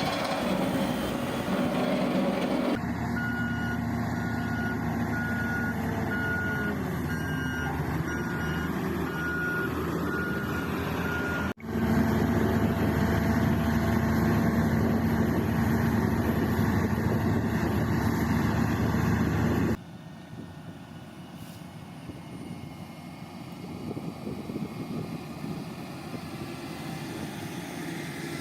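Heavy construction machinery running, heard in several clips joined by abrupt cuts. In one stretch, a reversing alarm beeps about once a second over the engine.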